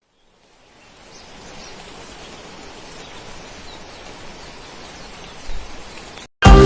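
Steady soft hiss of falling rain, fading in at the start. Near the end it cuts out abruptly and loud music begins.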